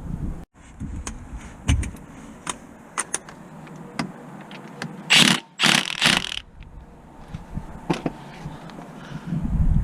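Metal hand tools clicking and clinking during car repair work, with a few short bursts of ratcheting about halfway through.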